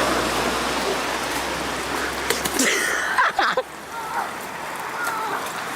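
Heavy rain pouring down, a dense steady hiss, that stops abruptly about two and a half seconds in. After it come short, high, wavering voice-like sounds.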